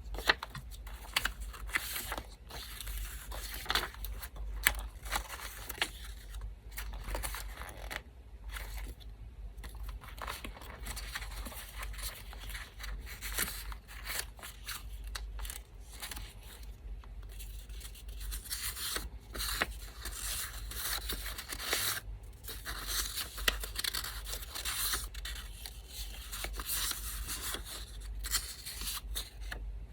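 Scissors snipping through paper over and over, mixed with paper being torn and rustled as it is handled. A steady low hum from an electric fan runs underneath.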